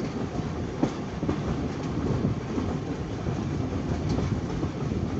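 Heritage steam train carriage running along the track, heard from an open carriage window: a steady rumble of wheels on rails with a couple of faint clicks.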